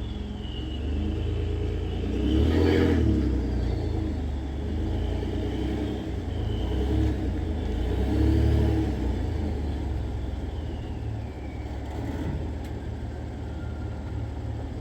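Ford F-150 twin-turbo V6 running through its factory muffler, with the turbos whistling in high tones that rise and fall over and over as they spool up and down. The engine swells louder twice, about two and eight seconds in. The whistle is brought out by aftermarket turbo inlet adapters and catted downpipes.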